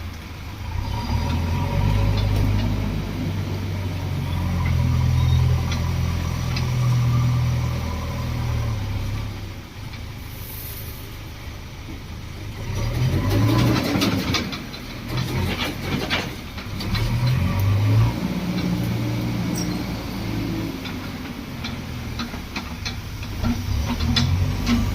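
JCB 3DX backhoe loader diesel engine working, its revs rising and falling as it digs and lifts. A spell of loud clanking and rattling comes about halfway through.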